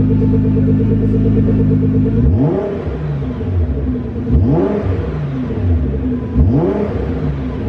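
Nissan GT-R R35's twin-turbo V6 idling through a custom titanium cat-back exhaust, then blipped three times in neutral, about two seconds apart, each rev rising quickly and falling back to idle. The sound is in an enclosed space, which makes it louder.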